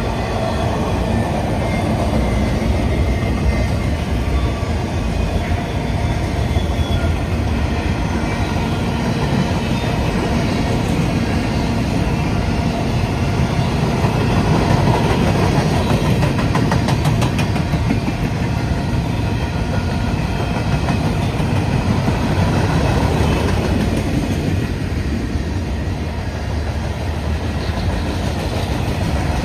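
A freight train's cars rolling past on steel rails: a steady, loud rumble of wheels on track that keeps up without a break.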